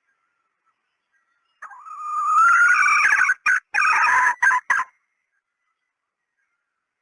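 Red junglefowl call: one loud call of about three seconds, swelling in at the start and breaking into short pieces near the end.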